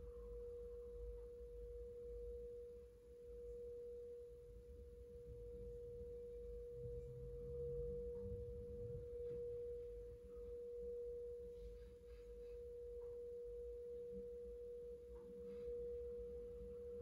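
Singing bowl sounding one steady, sustained mid-pitched tone.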